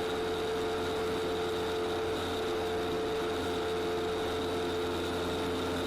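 Light aircraft's engine and propeller droning steadily inside the cockpit, an even, unchanging sound with a constant whine on top.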